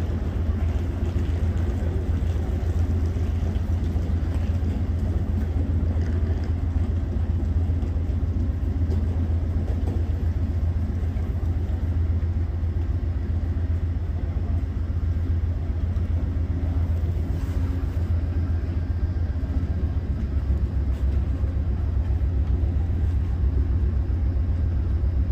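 Freight train rolling past in a steady, unbroken low rumble.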